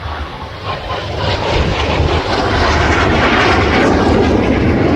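Aircraft engine noise as a plane flies low past, swelling over the first second or so and then staying loud.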